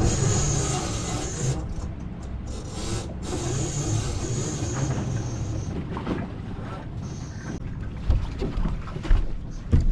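Dinghy being lowered on a catamaran's davits, the davit lines paying out around a winch with a steady rubbing, rasping sound over a low rumble. A few dull knocks near the end.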